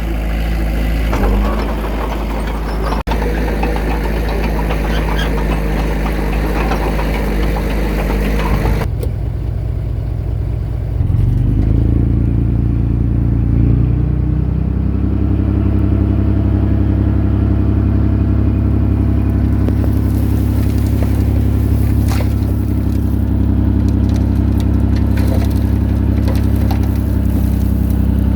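Heavy-equipment diesel engine running steadily. The sound changes abruptly about nine seconds in, then around eleven to twelve seconds the engine speeds up and holds a louder, higher, steady note.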